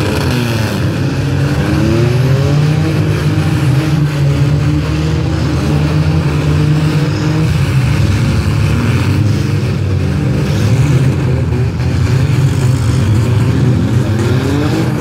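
Several demolition-derby compact cars' engines running together in a steady low drone, revving up and down as the cars push and ram in the mud.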